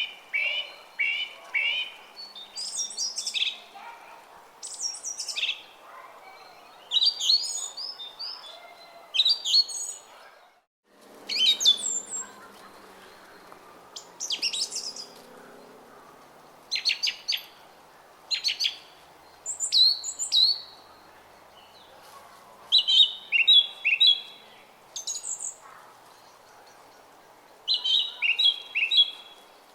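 Small songbirds singing in short, repeated phrases of quick chirping notes, over the faint steady murmur of a brook. The sound drops out completely for a moment about ten seconds in.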